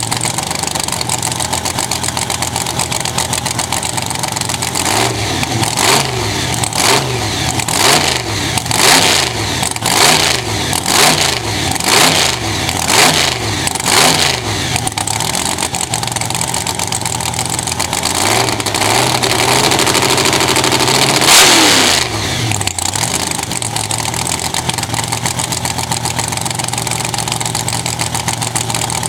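Supercharged V8 drag-car engine idling loudly, blipped about ten times in quick succession at roughly one a second, then held in a longer rev that climbs and cuts off sharply before it settles back to idle.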